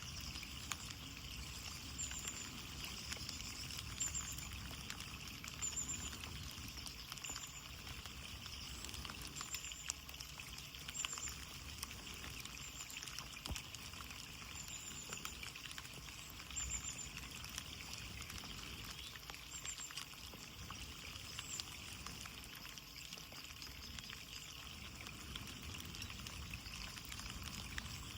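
Steady rain pattering on a window pane, a constant wash with many small scattered drop ticks.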